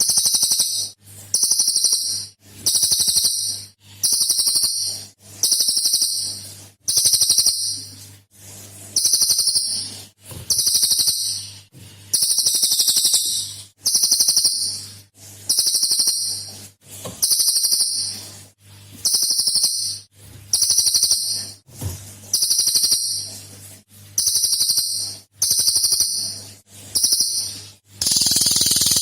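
Cililin songbird repeating its high, rapid 'shot' call: short bursts of under a second, about one a second, over a faint low hum.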